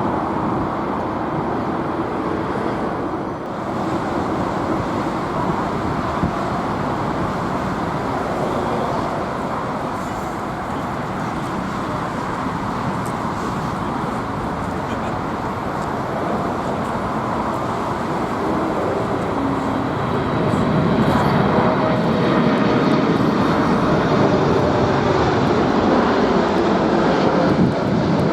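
Jet engines of a Boeing 747 running with a steady rush, getting louder about three-quarters of the way through.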